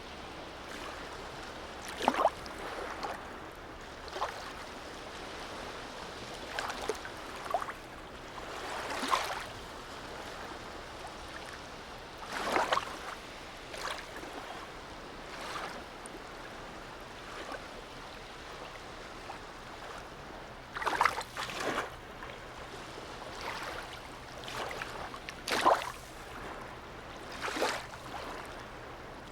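Small harbour waves lapping and splashing, with short irregular slaps every one to three seconds over a steady wash of water.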